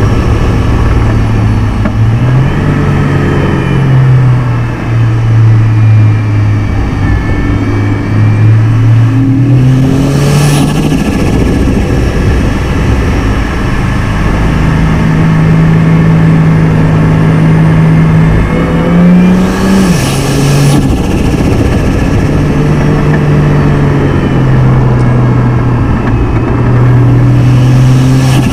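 Turbocharged Barra 4.0 L inline-six of a Ford FG Falcon XR6 Turbo running under changing throttle on a winding climb, its pitch stepping up and down with gear changes and throttle. There are two brief bursts of hiss, about ten and twenty seconds in.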